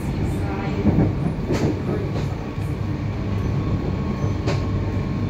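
Inside the passenger car of a DART 8520-class electric train under way: a steady low rumble from the running train, with a few sharp clicks about one and a half seconds in and again near the end.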